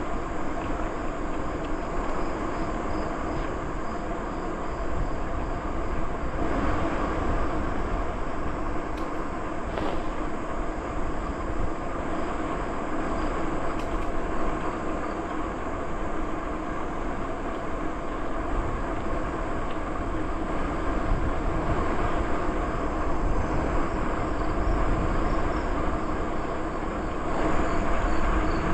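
A bicycle rolling steadily along a trail: a continuous rumble of tyres on the trail surface, mixed with wind noise on the microphone.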